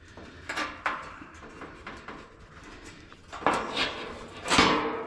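Metal side racks of an outdoor AC condenser unit being handled and pulled out: a few scrapes and knocks, the loudest about four and a half seconds in.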